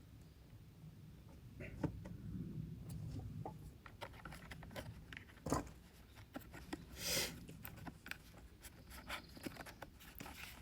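Wood fire crackling: faint, irregular clicks and pops, with a few louder snaps about five and seven seconds in.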